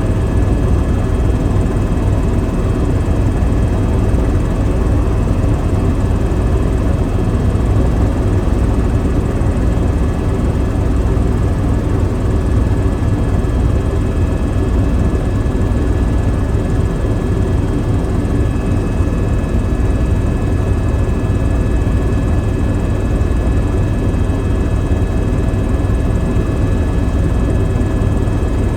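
Helicopter in steady flight: constant rotor and engine noise with a thin high whine running over it.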